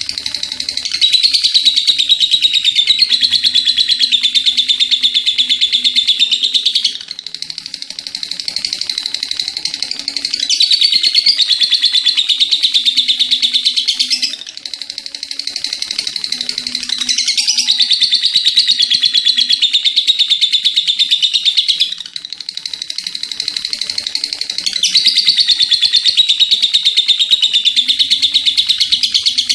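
Lovebird singing its long "ngekek" chatter: very fast, shrill trilled phrases, four of them each several seconds long, with softer chirping in between.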